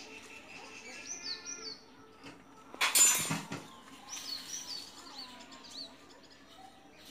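Small birds chirping in quick runs of short falling high notes, with a brief loud rustling noise about three seconds in.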